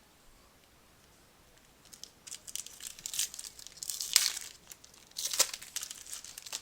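Foil trading-card pack wrapper being torn open and crinkled, a run of crackly tears starting about two seconds in.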